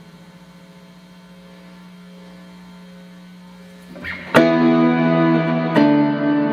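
Clean electric guitar through a Boss RV-6 reverb pedal into Roland JC-120 amps: a held chord rings out slowly, then a new chord is strummed about four seconds in and another about a second and a half later.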